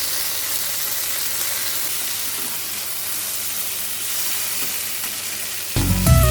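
Steady sizzling of food frying in hot oil, then background music with a beat starting near the end.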